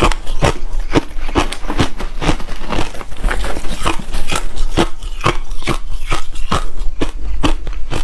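Refrozen crushed ice being bitten and chewed close to the microphone: a steady run of hard, sharp crunches, about three a second.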